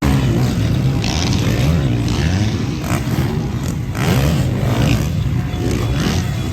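Several motocross bikes racing on the track, their engines revving up and down through the gears over one another.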